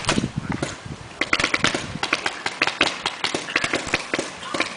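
Paintball markers firing in quick, irregular strings of shots, the runs coming thickest a little after one second in and again past three seconds.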